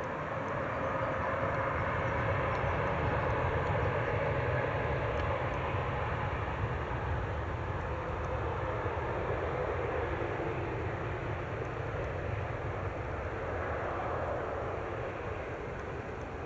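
Jet airliner's engines passing close by: a steady, dense jet noise that swells to its loudest a few seconds in and then slowly fades.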